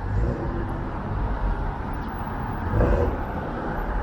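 Road traffic on a city street: cars and other vehicles driving past with a continuous low rumble of engines and tyres.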